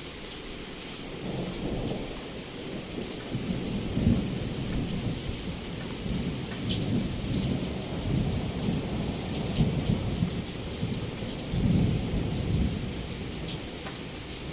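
Heavy rain falling steadily, with a long rolling rumble of thunder through most of it that swells loudest about four seconds in and again near the end.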